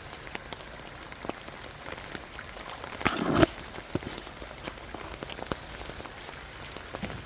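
Steady rain pattering, with many separate drop ticks. A brief louder noise about three seconds in.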